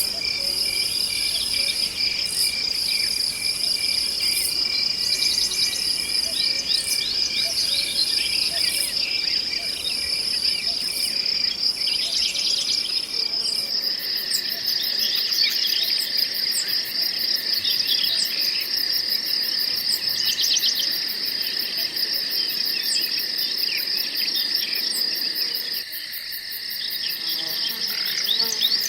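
Forest ambience of crickets and other insects trilling steadily, with scattered short bird chirps. About halfway the insect chorus changes to a different, faster-pulsing set of high trills.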